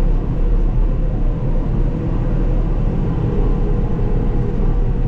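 Caterpillar D6K2 XL bulldozer running steadily: a continuous low diesel rumble with a faint steady whine.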